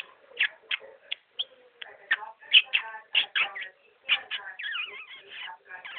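Budgerigar chattering: a rapid, continuous run of short chirps, clicks and warbles, some of them speech-like mimicry.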